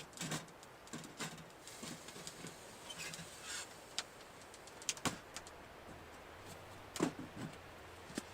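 Scattered light knocks, clicks and rustles of objects being handled, irregular and uneven in strength; a low steady hum comes in about five seconds in.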